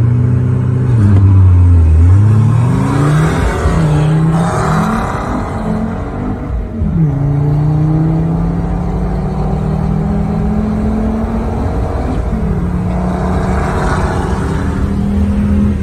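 Tuned Mercedes turbo-diesel car accelerating flat out from a standing start: the engine note drops low as the clutch is let out about a second in, then climbs and falls back through several gear changes, ending in a long pull in a higher gear.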